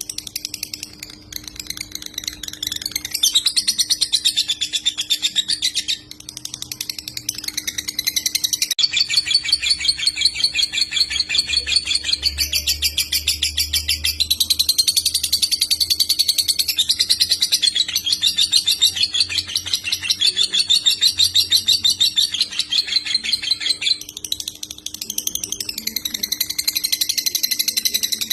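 Lovebird singing the long, rapid, buzzy chattering trill that bird-keepers call 'konslet', almost without pause. There are brief breaks about six seconds in and again near the end, over a faint steady hum.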